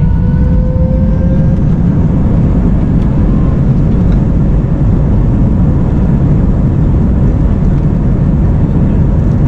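Airbus A321 jet engines at takeoff thrust, a steady, loud rumble with engine whine tones rising slowly in the first couple of seconds as the aircraft accelerates down the runway, heard from inside the cabin. The takeoff is a flex (reduced-thrust) departure.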